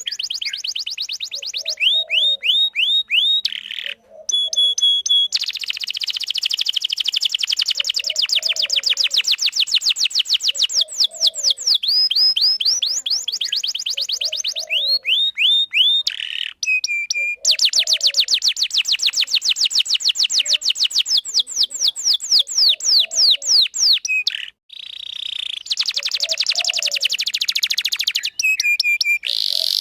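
Domestic canary singing a long, unbroken song of rapid trills: fast repeated notes sweeping up and down, strung into long rolls. There are short pauses about 4 seconds in, around halfway, and again near the end.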